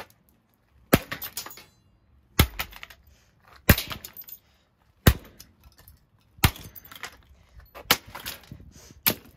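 A Kambrook CX10 exhaust fan's motor and housing being smashed: seven hard blows, about one every second and a half, each followed by a short rattle of breaking parts.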